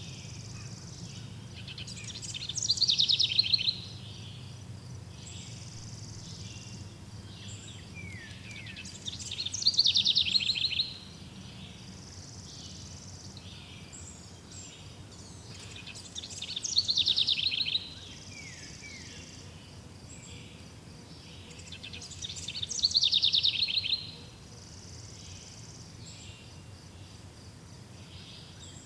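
A songbird repeating a loud, fast trilled song phrase four times, about every six to seven seconds, over a steady background of fainter bird chirps and insects.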